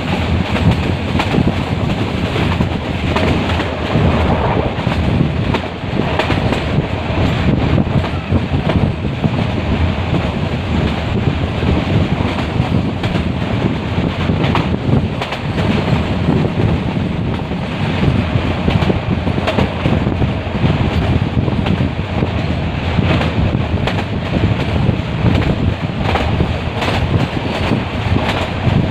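Metre-gauge passenger train running, a steady rumble of wheels on the track with wind buffeting the microphone.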